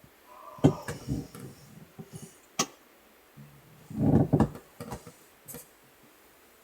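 Scattered knocks, clicks and rustles of things being handled in a small room, with a heavier thump about four seconds in.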